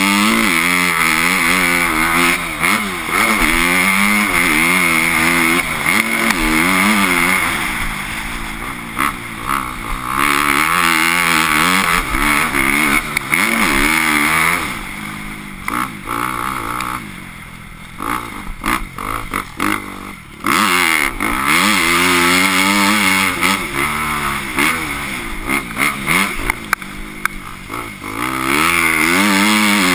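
Motocross bike engine revving hard and backing off over and over, its pitch climbing and dropping with throttle and gear changes. It eases off to a quieter, choppier spell a little past halfway, then pulls up to full revs again.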